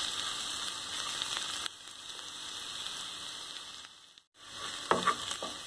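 Ginger-garlic paste frying in hot oil with browned onions and green chillies in a kadai, sizzling steadily: the stage of cooking off the paste's raw smell. The sizzle drops a little partway through and cuts out briefly about four seconds in.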